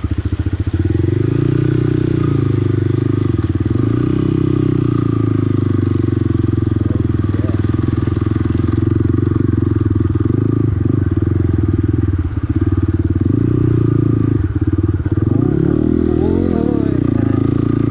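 Motorcycle engine running under way, its revs rising and falling again and again as the bike is ridden over rough off-road track.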